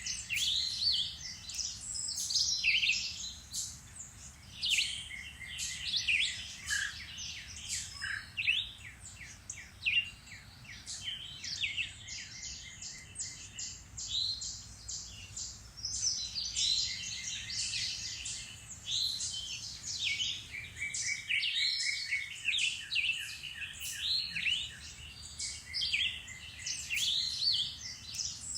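Several songbirds singing and calling at once in woodland: a dense, continuous chorus of overlapping chirps, whistles and rapid trills.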